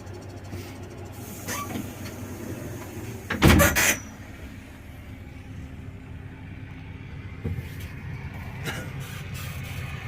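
Bus engine running steadily while driving, with one loud, short burst of noise about three and a half seconds in.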